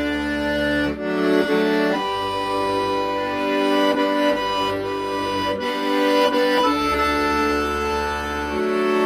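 Accordion playing a melody over held chords, with bass notes on the left-hand side coming and going every second or two.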